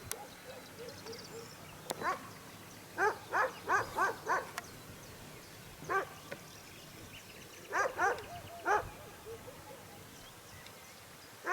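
A dog barking in bursts: a single bark, then a quick run of about six, another single bark, and a group of three.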